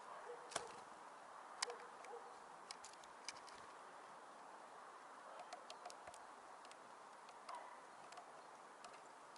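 Small birds, tits among them, at a winter feeder: a scatter of faint, short high chirps and ticks over a quiet hiss, a few seconds apart.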